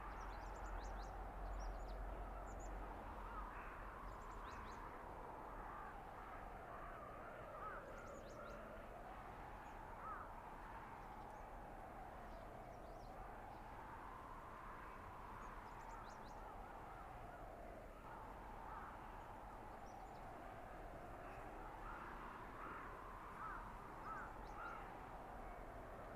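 Blizzard wind in a winter forest: a steady rushing noise with a howling whistle that slowly rises and falls in pitch, and scattered faint short bird calls.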